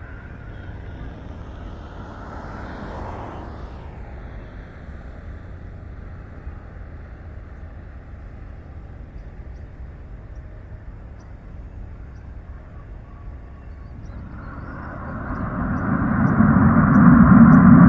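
Cessna 550 Citation II jet during landing: a steady hum of engine and airflow noise, then about fifteen seconds in the noise swells sharply and stays loud, as on touchdown and rollout.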